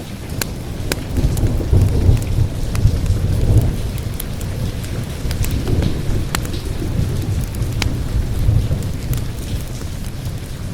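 Rolling thunder rumbling low, swelling about a second in and again around the middle, over steady rain. Sharp crackles and pops of a wood fire break through now and then.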